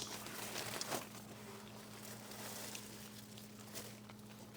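Quiet low steady hum with faint scattered small clicks and rustles.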